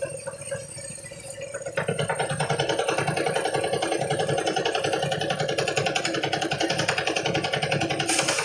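Engine-driven harvest thresher running. It is quieter at first, then about two seconds in it gets louder and settles into a fast, even pulsing.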